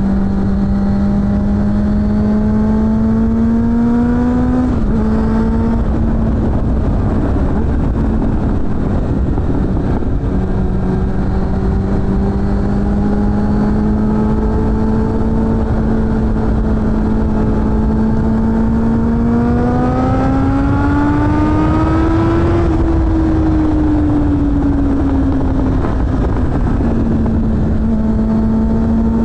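Suzuki GSF600 Bandit's inline-four engine running through a BOS aftermarket exhaust under way. The revs climb slowly and drop sharply at a gear change about five seconds in, then hold steady. They rise again under throttle near twenty seconds and fall back as the throttle closes.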